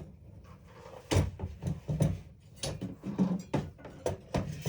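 Tools and metal parts being handled: a string of irregular clicks and clunks, about eight of them, while a cutoff wheel is fitted to a grinder.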